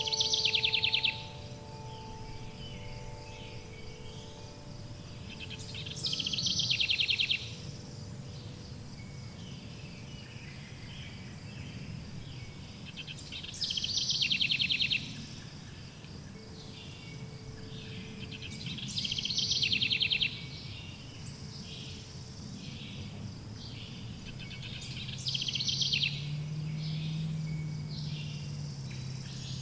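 A songbird repeats a short trilled song phrase about every six seconds over a steady background hiss. A ringing chime tone fades out in the first few seconds.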